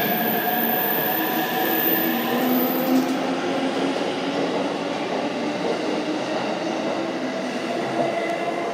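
Electric commuter train, a JR East Tokaido Line multiple unit, pulling out of the station and running past, with wheel-and-rail noise and a steady motor whine in the first few seconds. The last car passes near the end.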